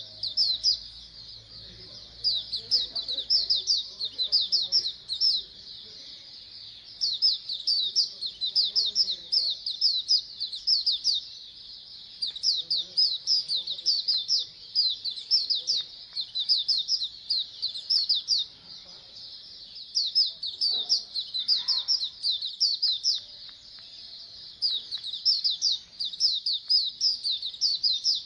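A group of white-eyes (pleci) singing: dense runs of rapid, high chirps that overlap, coming in bursts of a second or two with short pauses between.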